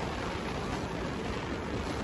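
Passenger train running at speed: a steady rumble of wheels on the rails mixed with rushing air along the side of the coach.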